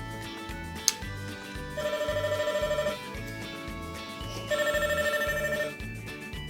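Electronic ringtone from a battery-powered toy baby phone: two short trilling rings about two seconds apart, after a click a little under a second in, over background music.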